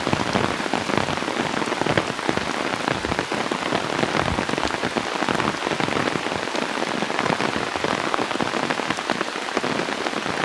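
Heavy rain coming down steadily, with a dense patter of individual drops striking close by.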